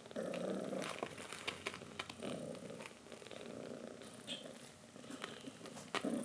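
A cat purring steadily, louder in stretches, with small clicks scattered through.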